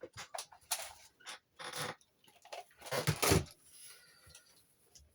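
A string of short clicks and rustles, like things being handled, with the loudest burst about three seconds in, then fading to a faint hiss.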